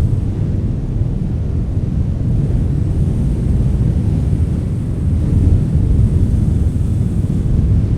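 Wind blowing as a deep, gusting rumble that swells a little in the second half.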